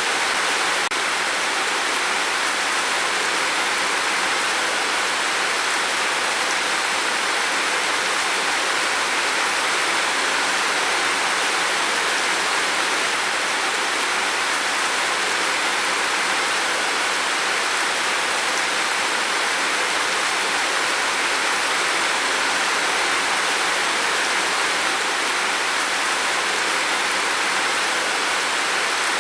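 Heavy rain falling steadily on a roof, a dense, even hiss of drops without letup.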